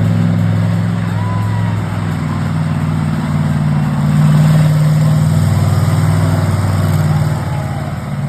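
An engine idling steadily close by, with an even pulsing hum that gets a little louder about halfway through.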